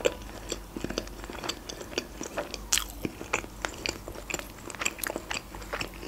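A person chewing a mouthful of fried meat-filled pancake with lips closed: a quick, irregular run of small wet clicks and crunches.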